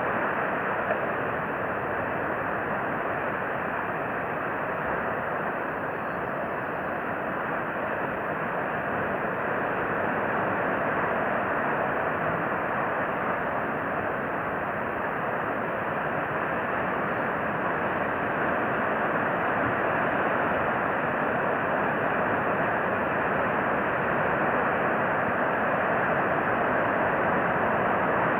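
Steady rushing outdoor background noise with no separate events, growing slightly louder in the second half.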